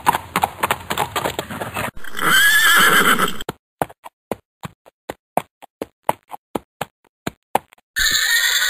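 Horse hooves clip-clopping, broken by a loud whinny about two seconds in. Then comes a clean run of hoofbeats at about four a second.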